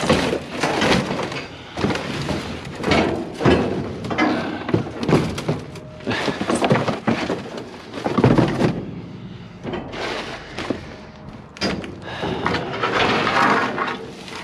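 Irregular series of thunks, knocks and clatter from debris being shifted and dropped inside an open-top construction dumpster while digging for scrap metal, with one heavier thud about eight seconds in.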